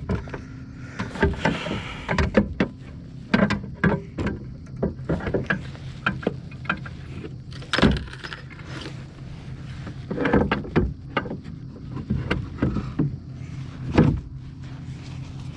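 Irregular knocks, bumps and rattles of gear being handled on board a fishing kayak, over a steady low hum.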